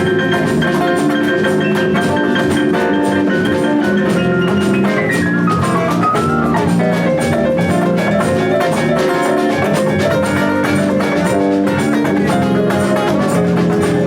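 Live band playing an instrumental passage, with drums keeping a steady beat under pitched instruments and a falling glide in the melody about five seconds in.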